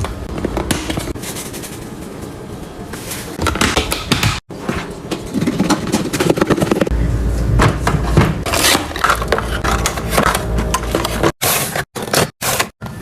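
Containers and packaging being handled and set down during pantry and fridge restocking: scraping, rustling and light knocks, in several short clips cut together.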